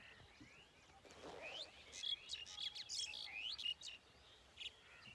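Small birds chirping and tweeting, a quick run of short high chirps and sliding notes in the middle, over faint outdoor background noise.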